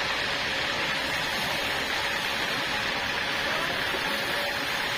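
Sawmill saw running steadily, a continuous even rushing noise with no breaks or changes.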